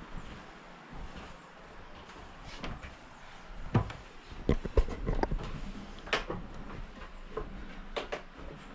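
Irregular knocks and clunks, about a dozen scattered over several seconds, loudest and closest together in the middle.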